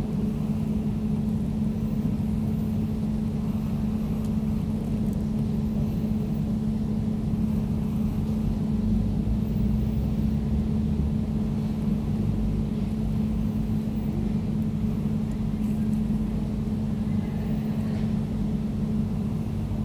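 Air conditioner running steadily: an even, low hum with a held tone over a rumbling drone.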